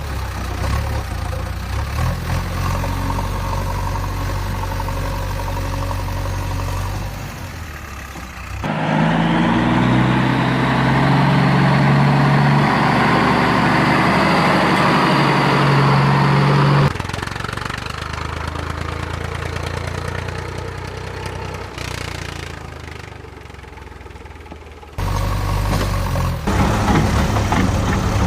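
Vehicle engine sounds, running and idling, in edited segments. The sound changes abruptly about a third of the way in to a louder, fuller engine running steadily, drops back to a quieter engine a little past halfway, and jumps back up near the end.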